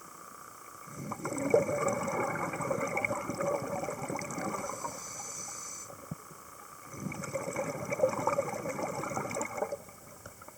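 A scuba diver's exhaled bubbles gurgling out of the regulator underwater, in two long bursts: one about a second in lasting nearly five seconds, and a shorter one after a brief pause.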